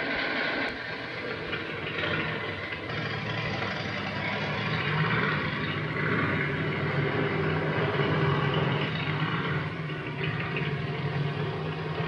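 Motorcycle engines idling and running steadily, with a constant low engine note under a haze of mechanical noise.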